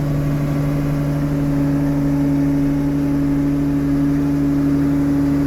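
Deutz DX 8.30 tractor's air-cooled diesel engine running steadily while driving, a constant low hum with no change in pitch.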